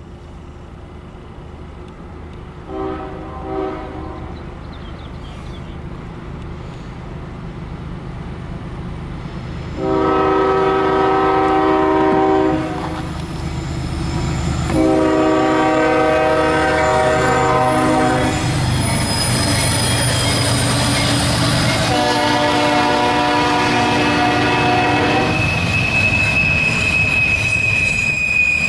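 A CSX freight locomotive's air horn sounds as the train approaches: two faint short toots, then three long blasts, over the rising rumble of the diesel locomotive. Near the end a high, steady wheel squeal sets in as the train reaches the curve.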